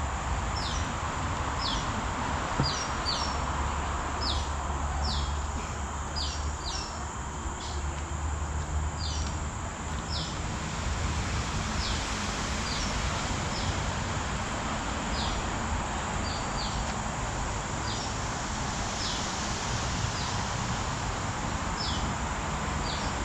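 Forest ambience: a bird repeats short, high chirps that fall in pitch, about one every second or so, over a steady high insect drone and a low rumble.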